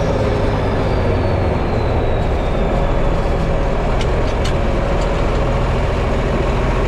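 Large diesel engine running steadily, with a faint high whine falling in pitch over the first few seconds and a couple of sharp clicks about four seconds in.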